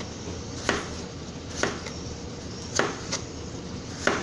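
Knife chopping a red bell pepper: about five sharp strokes at uneven intervals.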